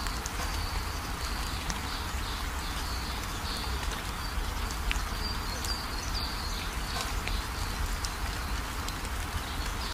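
Outdoor ambience: a steady hiss and low rumble, with a small bird chirping repeatedly at a high pitch through the first two-thirds, and a few faint clicks.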